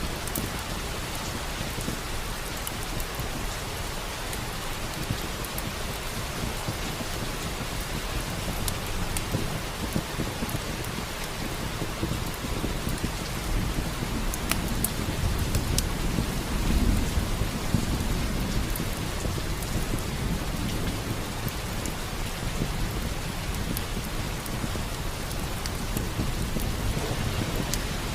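Steady rain falling, with a low rumble of thunder that swells and fades about halfway through. Scattered sharp crackles from a fireplace sit over the rain.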